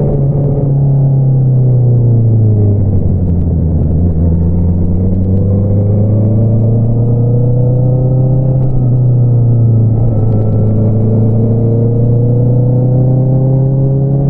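2022 Honda CBR650R's inline-four engine running through an Akrapovič single-outlet exhaust while riding. The engine note drops about two seconds in, then climbs slowly for the rest, with a brief dip around the middle.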